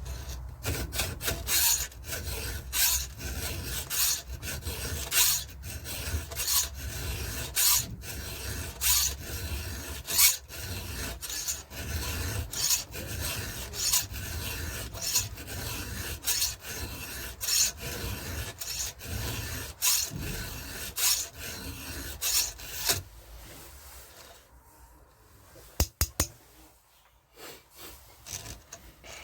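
Hand file rasping across the cutters of a Stihl MS-170 chainsaw chain in repeated strokes, about one to two a second, sharpening the chain. The strokes stop near the end, followed by a couple of light clicks.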